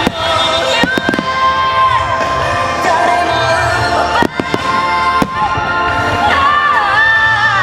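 A fireworks display set to loud music with a sung voice, with a few sharp firework bangs cutting through: about a second in, then twice more around four and five seconds in.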